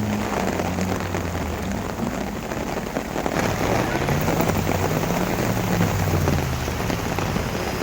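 Heavy rain pelting down, with an off-road vehicle's engine underneath revving up and dropping back, its pitch rising and falling several times.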